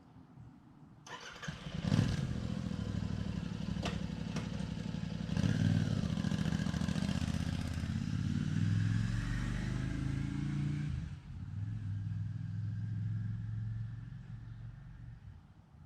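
A motorcycle engine comes up about a second in and runs steadily for around ten seconds. It drops out briefly, runs on again, then fades away near the end.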